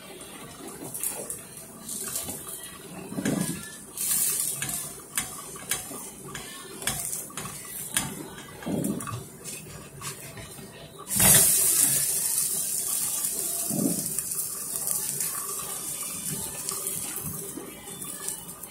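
Zucchini pancake frying in oil in a nonstick pan: a soft sizzle under spatula clicks and scrapes against the pan, then about eleven seconds in the sizzle jumps suddenly louder and holds steady.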